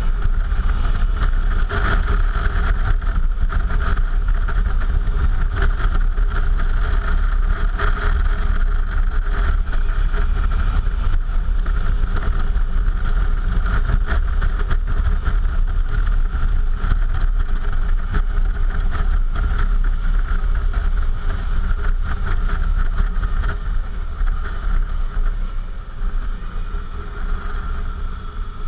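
Suzuki V-Strom motorcycle under way, its engine running steadily under heavy wind buffeting on the action-camera microphone. The level eases off a little near the end.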